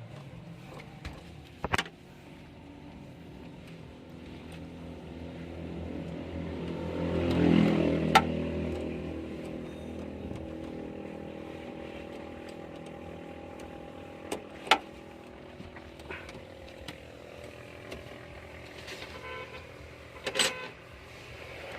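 A motor vehicle engine running steadily, swelling louder for a few seconds and then easing off, with a few sharp clicks or knocks over it.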